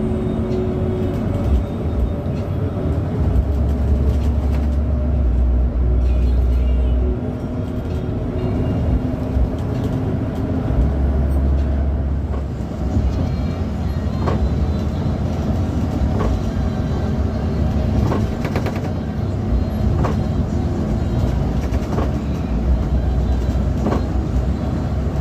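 Steady low rumble of an intercity bus under way, heard from inside the cabin, with engine and road noise surging now and then. From about halfway on, sharp clicks or knocks repeat about every two seconds.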